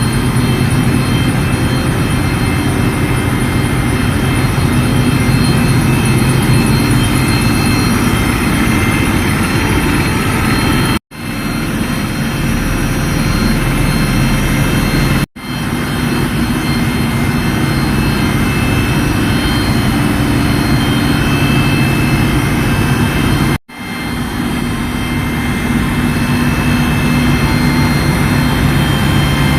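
Ship's engine-room machinery running: a loud, steady low drone with several steady tones above it. The sound breaks off for an instant three times.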